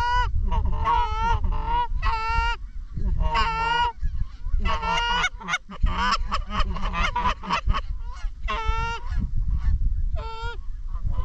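Geese honking and clucking, many short calls in quick irregular succession, over wind rumbling on the microphone.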